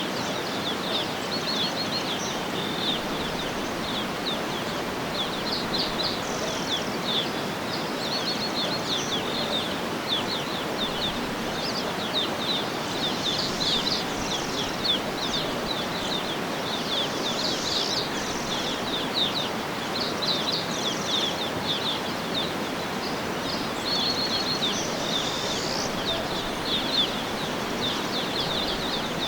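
Birds chirping and twittering in quick, repeated short high notes throughout, over a steady rushing background noise.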